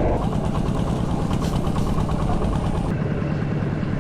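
An engine running steadily with a fine, even pulse.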